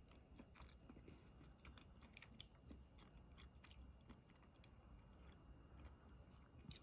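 Near silence with faint, irregular small clicks and crackles, like quiet handling or eating.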